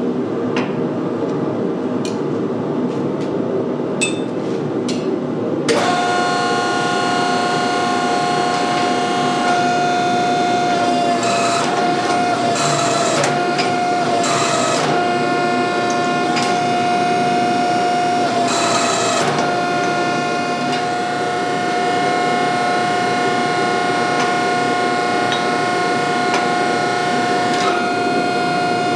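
A shop machine running steadily, joined about six seconds in by a steady high whine that holds to the end, with a few short crackling bursts along the way.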